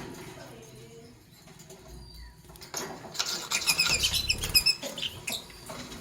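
Lovebirds chirping: a quick, dense burst of short, high chirps starting about halfway through, mixed with light clicks.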